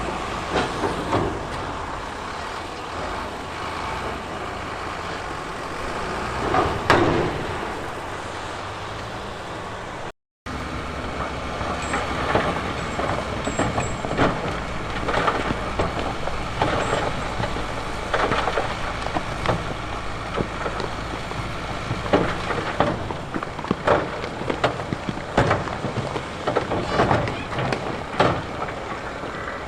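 Diesel earthmoving machinery running, with repeated knocks and clatter of rock being pushed or dumped. The sound drops out for an instant about ten seconds in, then resumes with more frequent knocks.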